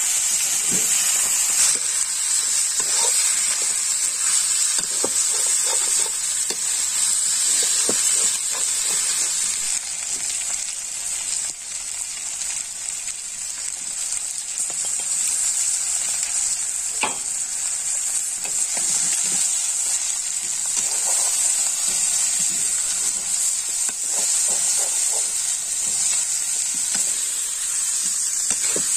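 Chicken pieces sizzling as they fry in an iron kadai, a steady hiss, with the scrape and clink of a steel ladle stirring them now and then.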